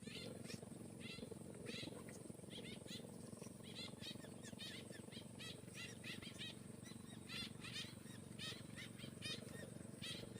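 Birds chirping, many short calls at uneven spacing, over a steady high insect drone and a low steady rumble.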